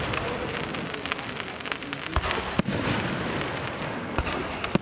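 Aerial fireworks: a dense, continuous crackling of bursting shells, with several sharp bangs, two of them close together about two seconds in and another two near the end.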